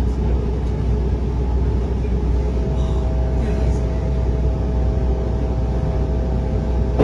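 Steady low rumble of a railroad passenger coach rolling along the track, heard from inside the car, with a faint steady tone joining in about two and a half seconds in.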